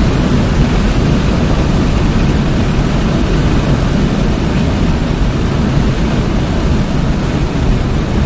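Hyundai Elantra N's turbocharged 2.0-litre four-cylinder running hard on a racetrack, its engine sound mixed with steady wind and tyre noise at speed.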